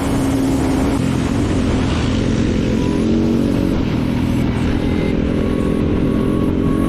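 Single-cylinder four-stroke off-road engine running at fairly steady revs.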